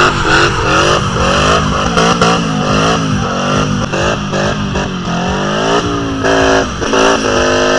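Car engine being revved again and again, its pitch climbing and dropping in quick blips over a steady low drone.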